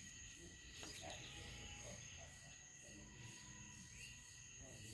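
Near silence, with faint, steady, high-pitched insect chirring.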